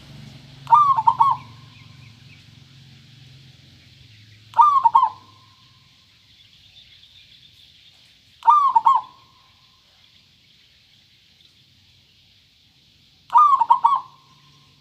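Zebra dove (perkutut) cooing: four short, clear phrases several seconds apart, each a quick run of rolling coos. A low hum in the first few seconds fades away.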